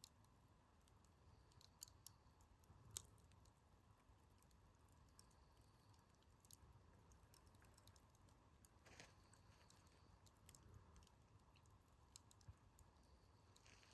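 Wood campfire crackling faintly, with irregular sharp pops and snaps from the burning logs. The loudest pops come about two and three seconds in.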